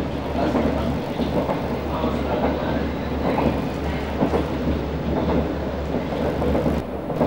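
Singapore MRT train running at speed on an elevated track, heard from inside the car: steady rolling and running noise over a constant low hum.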